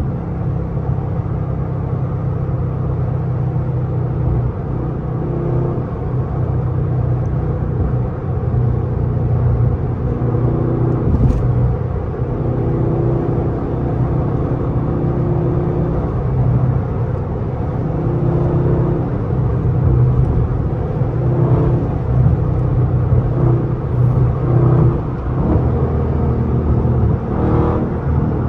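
392 cubic-inch (6.4 L) HEMI V8 engine and exhaust of a car being driven, the engine note holding fairly steady with small rises and dips in throttle.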